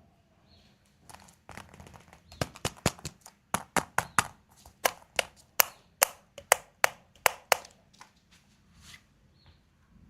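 Sharp clicks and taps of a plastic surprise egg and its packaging being handled and opened: a run of about twenty quick clicks, several a second, starting about two seconds in and stopping near eight seconds, with faint rustling around them.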